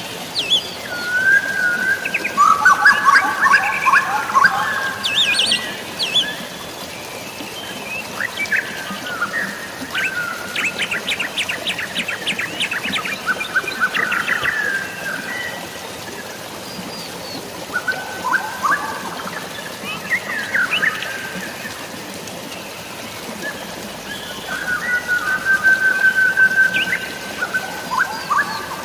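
Several songbirds chirping and calling over a steady hiss of water. About midway one bird gives a fast trill of repeated notes, and near the end a held, level whistle.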